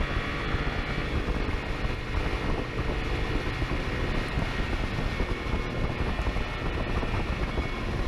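Motorcycle engine running steadily at speed, with wind rushing past.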